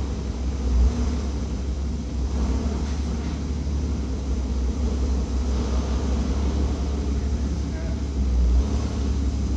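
Porsche Cayman GT4's 3.8-litre flat-six running at a steady low idle as the car creeps forward.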